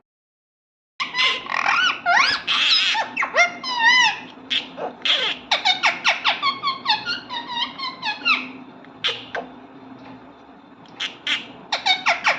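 A parrot calling in quick rising and falling whistles and short squeaky chirps. The calls start suddenly about a second in, thin out for a couple of seconds, then come back as a fast run of short chirps near the end.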